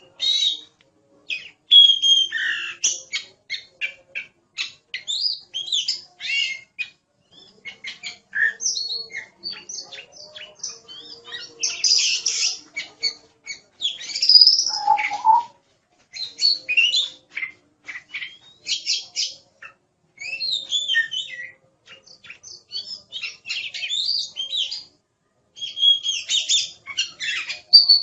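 Oriental magpie-robin (kacer) singing energetically: a varied run of short whistled phrases, glides and rapid clicking notes, broken by brief pauses.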